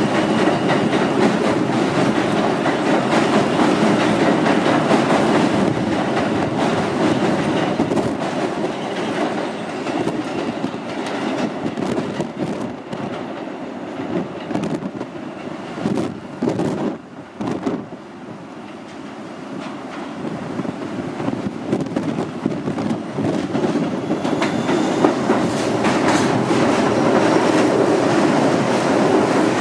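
Subway train running on the rails, wheels clicking over rail joints, with a steady whine above the rumble. The sound falls away a little after halfway and builds again toward the end.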